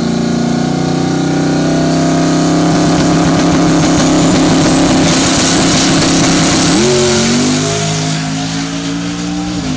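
Single-turbo small-block Ford V8 in a Fox-body Mustang held at a steady high rev on the drag-strip line, with a thin, high turbo whine slowly climbing above it. About seven seconds in the car launches and the engine pitch steps up.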